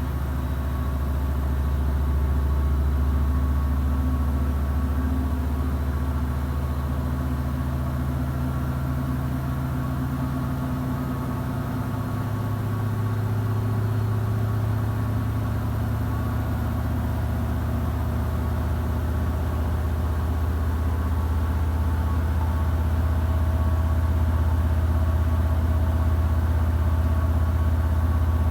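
Samsung digital inverter front-loading washing machine spinning its drum, a steady low motor hum whose pitch steps up about twelve seconds in as the drum changes speed.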